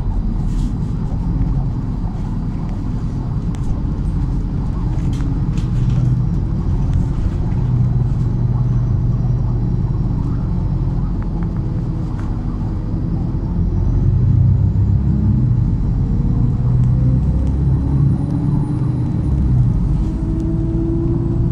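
MAZ-103 city bus driving, heard from inside the cabin: a steady low engine and road rumble with a few rattling clicks in the first seconds and a faint high whine that rises and falls. Near the end the engine note climbs as the bus speeds up.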